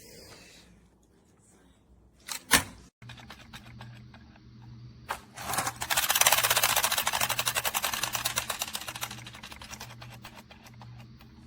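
A single knock, then the rapid, even clicking of a press-and-go toy monster truck's wind-up gear mechanism over a low whir, loudest for a few seconds in the middle and running down.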